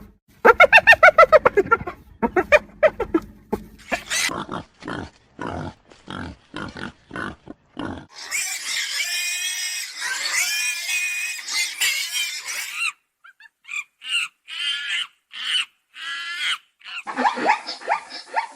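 Animal calls in quick series: a fast run of pitched calls falling in pitch, then evenly spaced short calls, then a dense stretch of high squealing calls lasting about five seconds, and more short calls near the end.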